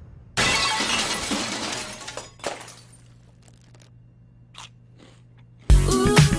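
A sudden crunching crash, as of something breaking, fading over about two seconds, followed by a few scattered small clicks and cracks. Music starts near the end.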